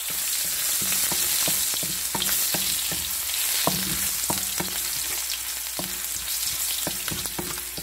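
Ginger strips sizzling in hot oil in a wok, stirred with a wooden spatula that clicks and scrapes against the pan at irregular moments.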